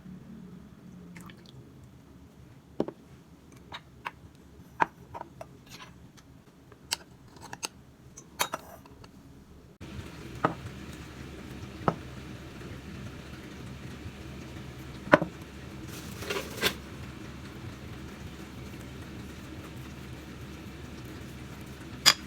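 Kitchen handling sounds: scattered sharp clicks and knocks of utensils and dishes, several a second at times. About halfway through, a steady low hum comes in underneath and carries on.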